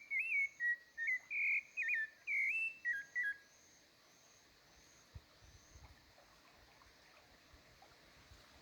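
A quick series of clear whistled notes that jump up and down in pitch, lasting about three seconds and then stopping, leaving faint background noise.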